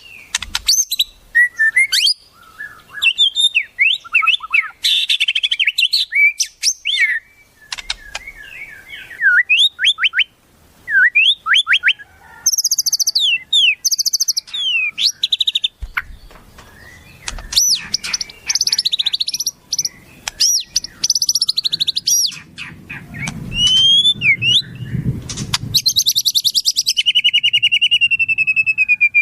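Songbird singing a varied, fast-changing song of sliding whistles, sharp chirps and rapid trills, ending in a long falling trill. A low rumble sits under the song for a few seconds past the middle.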